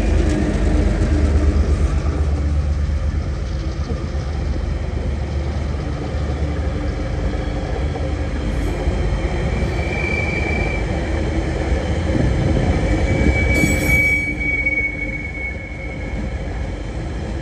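A long rake of empty ore wagons rolling past with a steady heavy rumble and rattle of wheels on rail. Brief high-pitched wheel squeals come twice in the second half.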